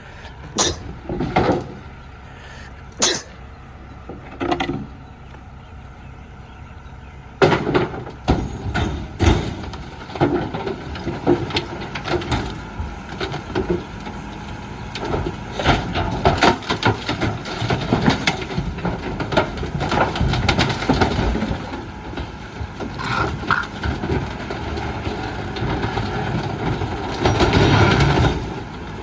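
McNeilus rear-loader garbage truck packing bulky waste. A few separate bangs come in the first five seconds. From about seven seconds in there is a long stretch of dense cracking, snapping and banging as the load is crushed, over the truck's running engine.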